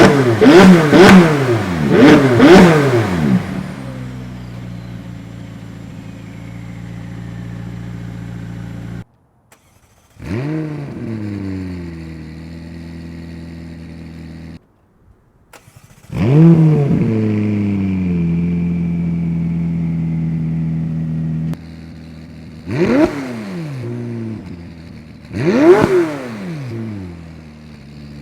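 McLaren 570S twin-turbo V8 exhaust. It opens with several quick throttle blips and settles to a steady idle. Twice the engine starts with a rising flare that drops back to idle, and near the end there are two short single revs. The clips are joined by abrupt cuts.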